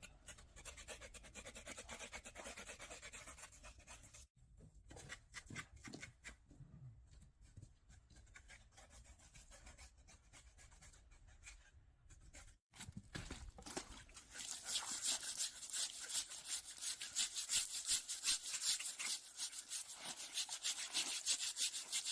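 A knife scraping and cutting over the skin of a pig carcass in quick, repeated rasping strokes, louder and faster for the last third.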